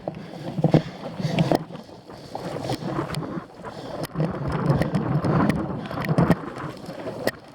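Wind rushing over the microphone of a cyclocross bike ridden hard, with scattered clatters and knocks from the bike on rough ground.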